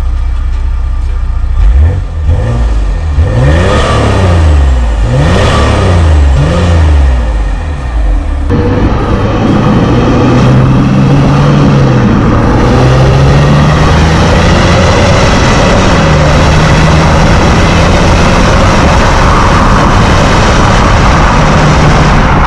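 Mercedes GLK 320 CDI's V6 diesel, its particulate filter removed, revved about four times in quick blips. About eight seconds in the sound changes suddenly to a steadier, wavering engine note under a loud rushing noise.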